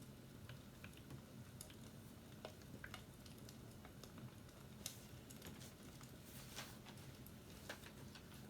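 Faint fireplace crackling: scattered, irregular small pops and clicks over a low steady rumble.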